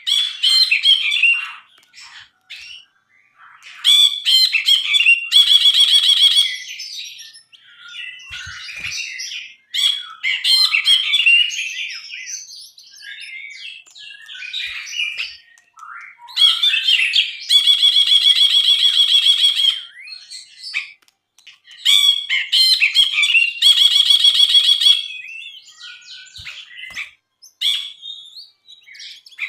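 Brinji, a bulbul, singing a loud, varied song of chattering, whistled phrases broken by fast buzzy rattling trills. The longest trills come about 5, 17 and 23 seconds in.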